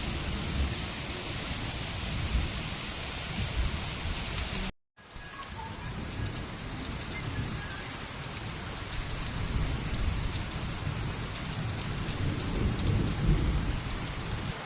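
Heavy rain pouring down in a steady hiss. About five seconds in it cuts out for an instant, then carries on with many sharp ticks of drops striking a nearby surface.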